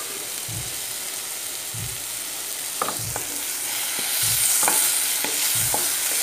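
Diced raw papaya and a dried red chilli sizzling in oil in a nonstick frying pan while a wooden spatula stirs them, knocking and scraping against the pan. The sizzle gets louder about four seconds in as the pieces are turned.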